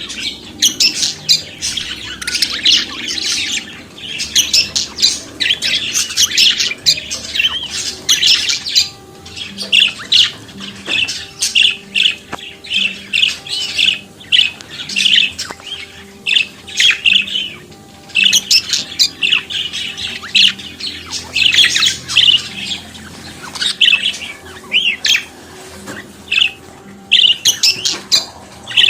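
Budgerigars chattering and warbling: a rapid, continuous stream of high chirps, squawks and trills, several birds at once, with short pauses.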